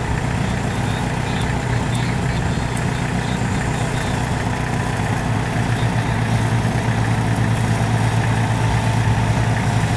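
Off-road vehicle engine running steadily at a low idle, a little louder from about six seconds in.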